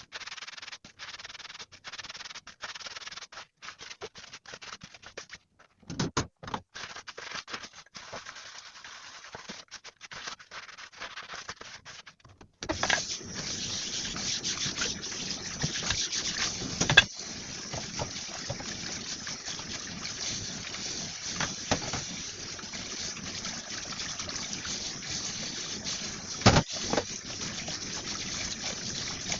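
Stop-start rubbing and splashing sounds broken by short gaps, then a tap running steadily into a sink from a little under halfway through, with a couple of sharp knocks over the running water.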